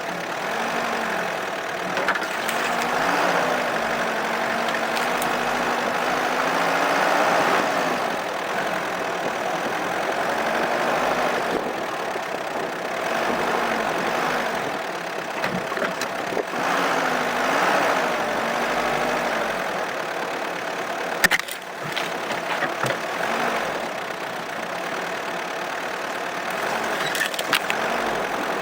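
Opel Monterey SUV engine running under way through deep snow. Its pitch rises and falls as the throttle changes, over a rushing noise that swells and fades. A few sharp knocks come late on, the loudest about three quarters of the way through.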